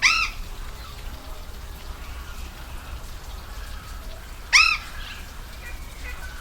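Steady rush of a waterfall, with an animal giving two loud, short calls that rise and fall in pitch: one at the very start and one about four and a half seconds in. Faint chirps come near the end.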